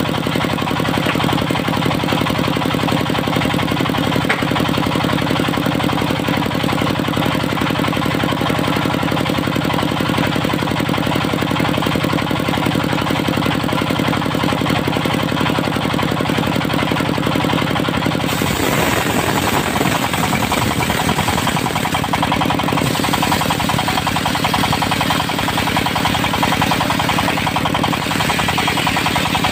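A motor engine running steadily with a rapid even pulse; its pitch shifts about two-thirds of the way through.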